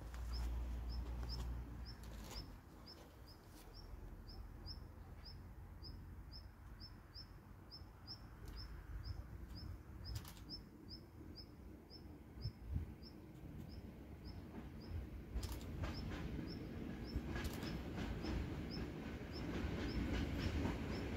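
A small bird repeating a short high chirp, two or three times a second, fading out near the end. Over the last several seconds the low rumble of an approaching EN57 electric multiple unit rises.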